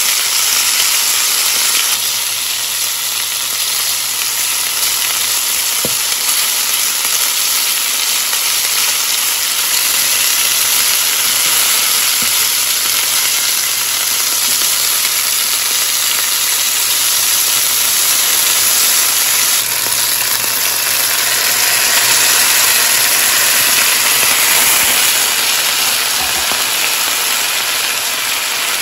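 Pork strips, sugar snap peas and red pepper sizzling steadily as they stir-fry in a hot frying pan.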